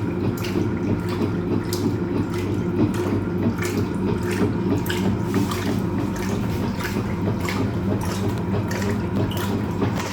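Hoover Automatic 820 top-loading washing machine agitating a load: a steady motor hum, with water sloshing and splashing irregularly in the drum as the agitator churns the clothes.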